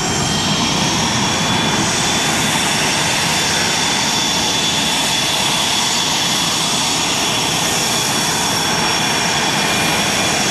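Military jet engines running steadily, a continuous rushing noise with high-pitched turbine whine held on several steady tones.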